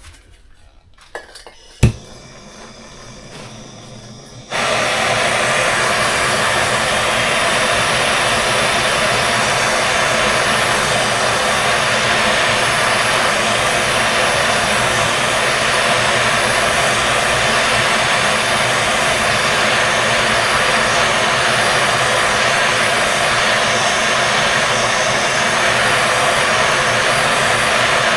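A sharp click about two seconds in, then a gas blowtorch flame starts suddenly at about four and a half seconds and burns with a loud, steady hiss, heating the sleeve of a seized motorcycle centre-stand bolt to break it loose.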